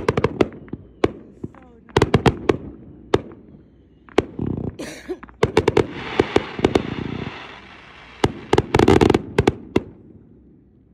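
Aerial fireworks shells bursting in rapid volleys of sharp bangs, with a stretch of crackling about six seconds in, thinning out near the end.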